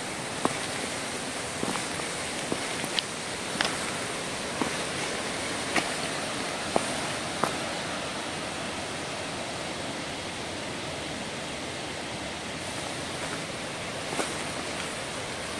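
Footsteps on a forest floor: sharp snaps and cracks of twigs and leaf litter about once a second through the first half, then one more near the end, over a steady rushing background noise.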